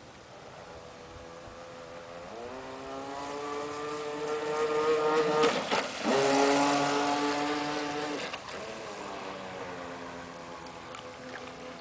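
RC Spurt speedboat's stock 540 electric motor, driven by an oversized speed controller, whining at high speed; the whine steps up in pitch about two seconds in, grows loud as the boat runs closer with a brief hiss in the middle, then fades away and swells again near the end.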